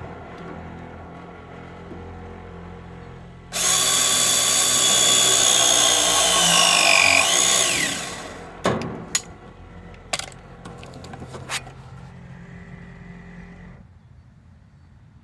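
Battery-powered press tool running a press cycle on an RLS Zoomlock fitting for about four seconds, its motor whine dropping in pitch near the end as the jaws close under load. A few sharp clicks follow.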